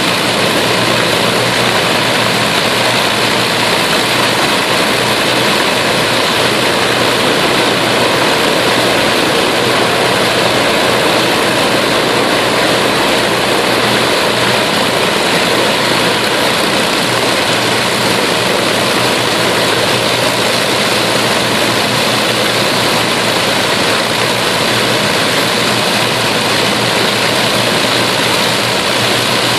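Avro Lancaster's Merlin V12 piston engines running steadily, with a dense, unchanging drone and propeller noise.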